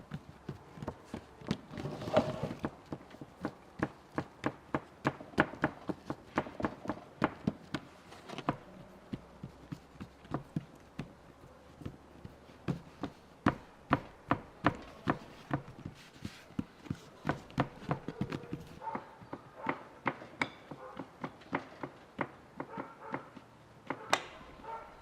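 A long run of sharp knocks in a steady rhythm, about two to three a second, with a brief pause about nine seconds in.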